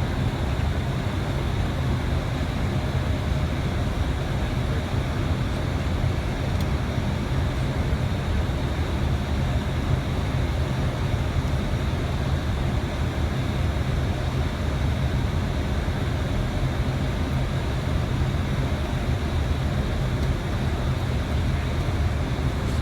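Steady flight-deck noise of an Airbus A320 in descent: a constant low rumble under an even rush of air, unbroken throughout.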